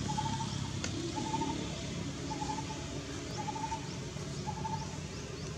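A bird repeating one short, slightly wavering mid-pitched note about once a second, with faint high rising chirps from another bird in the second half, over a low steady hum.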